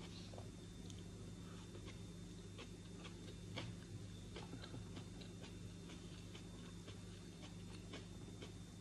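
Faint, irregular clicks and chewing from a person eating with his fingers, over a steady low hum.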